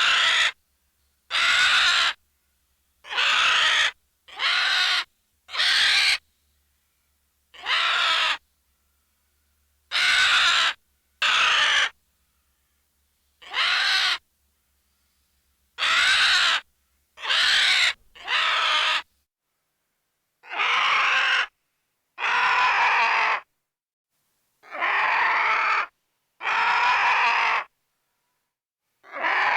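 A bird giving harsh, raspy squawking calls, offered as a vulture's voice. About sixteen separate calls of roughly a second each come at uneven gaps of one to two and a half seconds, with silence between them.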